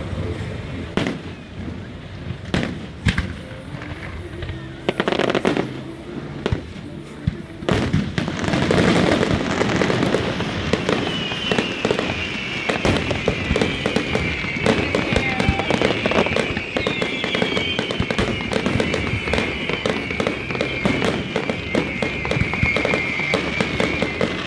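Fireworks display: a string of sharp bangs and crackles, scattered at first and then coming thick and fast from about eight seconds in, with high whistles falling in pitch again and again through the second half.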